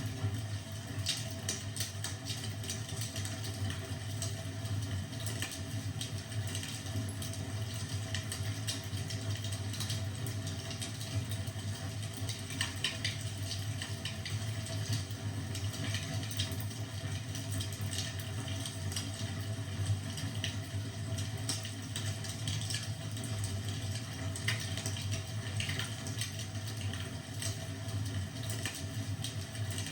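Wood fire crackling, with scattered short sharp pops and snaps over a steady low hum.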